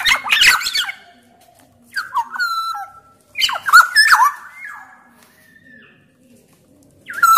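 Black-naped oriole (kepodang) calling in short loud bouts of fluty, sliding whistles mixed with harsher notes: one bout at the start, two more about two and three and a half seconds in, and another beginning near the end.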